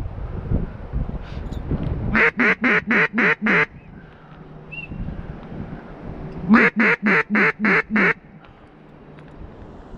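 Two loud runs of mallard quacks, six quacks in each run about a second and a half long. The quacks are evenly spaced and each one drops in pitch. A low rumble fills the first two seconds.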